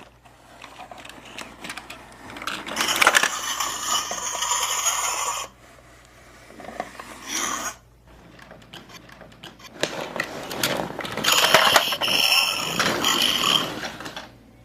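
A plastic toy monster truck's mechanism rattling and clicking as its button is worked to release a small toy car. It comes in two bursts of about three seconds each, the second near the end.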